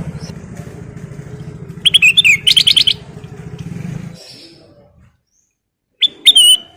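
Kutilang emas bulbul singing short, bright, quick phrases of whistled notes, one about two seconds in and another near the end. A low drone runs under the first four seconds and then stops.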